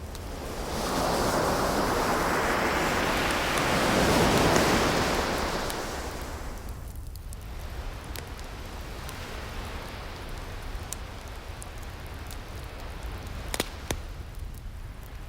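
An ocean wave surges in, swells to its loudest after a few seconds and washes away, over a steady sea hiss. Wood fire crackles with small pops throughout, and two sharper pops near the end.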